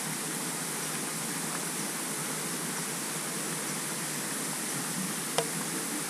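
Steady rush of a waterfall and stream, an even wash of noise. A single sharp click near the end.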